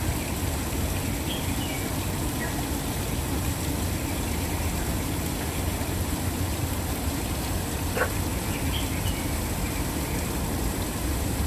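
Waterfall running, a steady rush of falling water heaviest in the low end, with a few faint short bird chirps and a single sharp click about eight seconds in.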